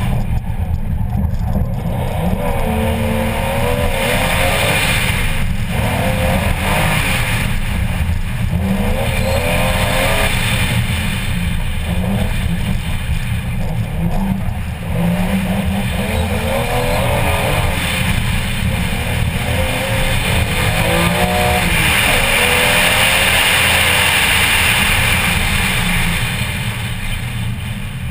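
BMW M3 race car engine heard on board under hard driving, its pitch repeatedly climbing and dropping as it is revved through gears and lifted off for corners, over a steady rush of tyre and wind noise. The engine note falls away near the end as the car slows.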